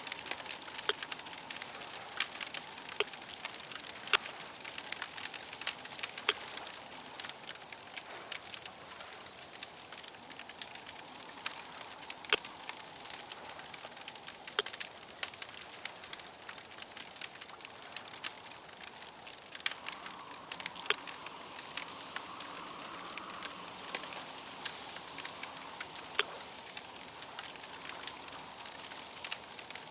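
Fire crackling steadily, with many sharp, irregular pops and snaps over a soft hiss. A faint rushing sound swells slightly about two-thirds of the way through.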